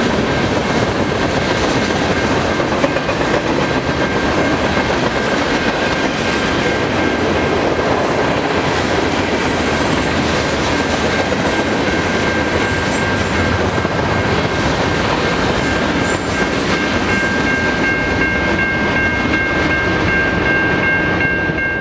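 Freight train cars rolling past, with a steady rumble and clatter of steel wheels on the rails.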